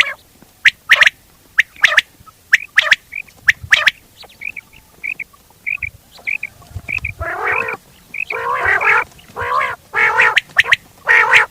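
Quail calling repeatedly: sharp, clipped call notes come in quick groups at first, then softer short notes, and from about seven seconds in, longer rough notes roughly once a second.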